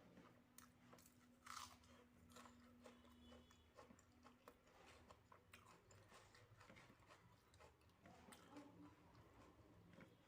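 A person chewing a mouthful of rice, dal and mashed potato with omelet: soft, irregular mouth clicks and smacks, a few every second, faint.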